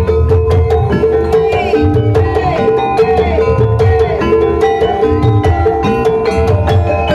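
Javanese gamelan music accompanying a kuda lumping dance: metallophones ring out a repeated melody over steady drum beats.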